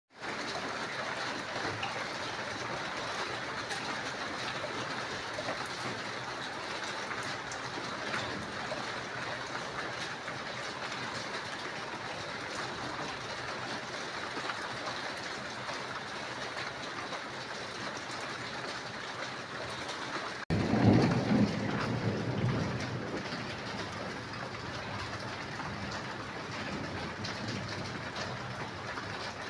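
Steady rain falling, a continuous even hiss. About twenty seconds in the sound cuts abruptly to a louder stretch with a low rumble underneath, which eases off over the next few seconds while the rain continues.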